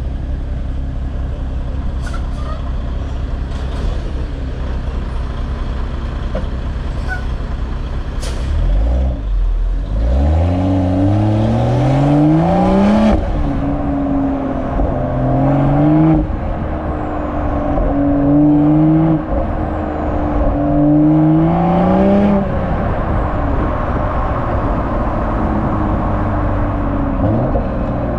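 BMW M340i's B58 turbocharged inline-six exhaust, running at a steady low note, then climbing in revs about nine seconds in. It rises and falls several times, loudest while revving, before settling back to a steady low rumble near the end.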